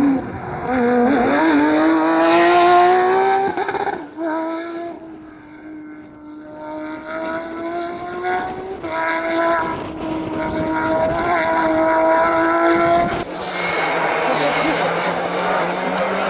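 Rally car engine pulling hard, its pitch climbing through the gears with short breaks at the shifts. About 13 seconds in it gives way abruptly to a lower, steadier engine note with loud tyre and road noise.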